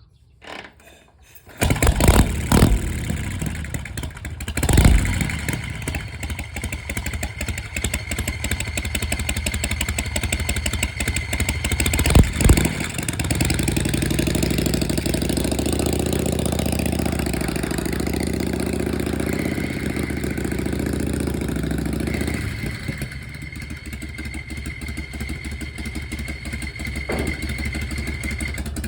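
Harley-Davidson Shovelhead V-twin engine starting up and blipped a few times, then running steadily at a fast idle that drops to a slower idle about three-quarters of the way through.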